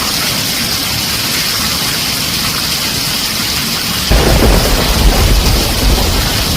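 Heavy rain drumming on a tin roof, a steady hiss. About four seconds in, a deep rolling rumble of thunder sets in and carries on.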